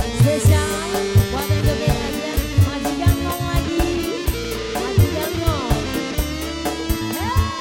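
Instrumental break in a dangdut-style band song: a steady drum beat under a melody of held and sliding notes, with guitar among the instruments.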